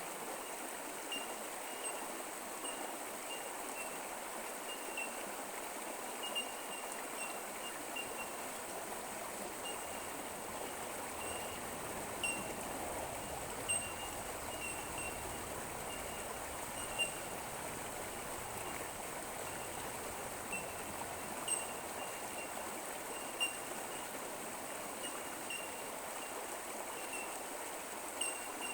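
Creek water flowing and trickling steadily over rocks, with short high chirps from insects or birds repeating over it.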